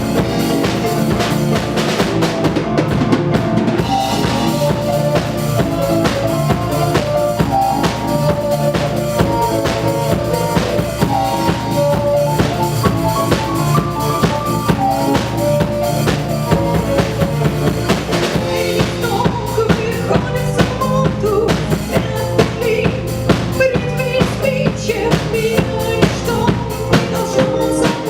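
Live band playing an instrumental passage: a drum kit keeps a steady beat under held melodic lines.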